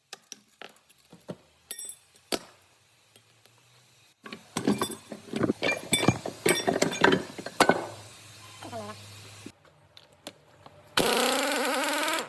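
Metal tools and parts clinking and knocking during work on a truck's rear axle, busiest in the middle. Near the end comes a loud whirring that rises in pitch for about a second.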